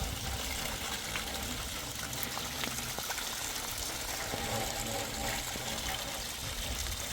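Water running and splashing steadily, a continuous gush, with a voice faintly heard about two-thirds of the way through.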